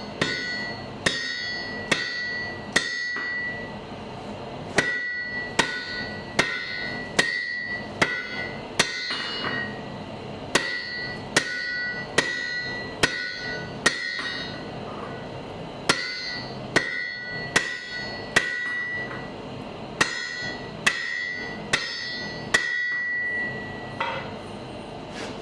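Blacksmith's hammer striking an anvil in a steady rhythm, a little more than one blow a second, each blow leaving a bright ringing tone. The blows come in runs with short breaks between them.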